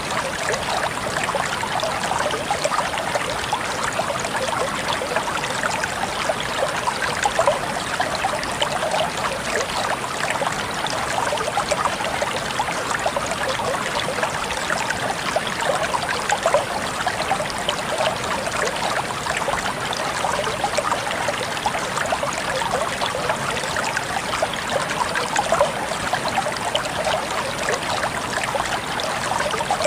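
Shallow stream of water flowing steadily, with a dense, even babbling and trickling.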